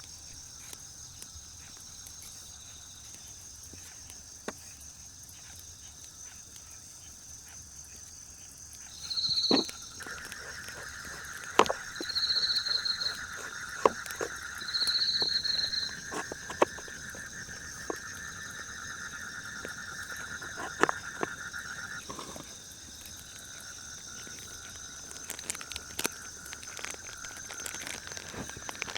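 Frog and insect chorus trilling steadily, with three short high calls about three seconds apart near the middle, and a few scattered sharp clicks and knocks.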